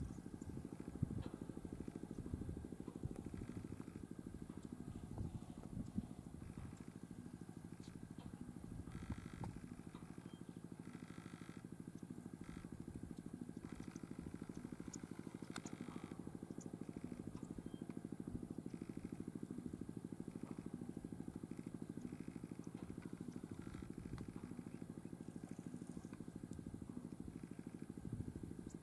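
Vehicle engine idling: a steady low rumble with no change in pace.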